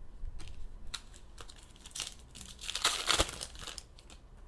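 Wrapper of a trading-card pack crinkling and tearing as it is handled and opened, in a run of rustles that are loudest about three seconds in.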